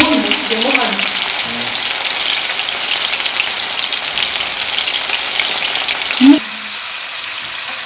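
Minced-meat meatballs frying in shallow oil in a non-stick pan: a steady crackling sizzle. About six seconds in there is a brief loud sound, after which the sizzle continues more quietly.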